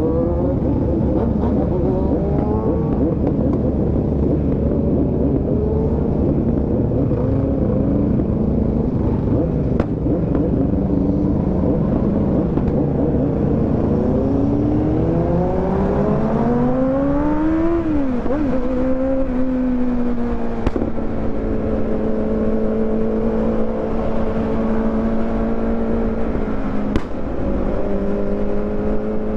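Kawasaki motorcycle engine under hard acceleration, its pitch climbing in the first seconds and again in a long rise that peaks about two-thirds of the way in, then dropping sharply at a gear change before running steadily at cruising revs.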